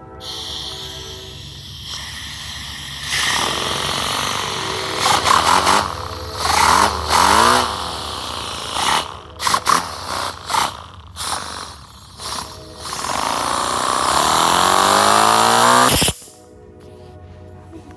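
Compressed air hissing through a paper flat-twin air engine as it runs, its speed rising and falling with the air. The air comes in a series of short blasts, then one long run in which the engine speeds up before the air cuts off suddenly near the end. Background music plays underneath.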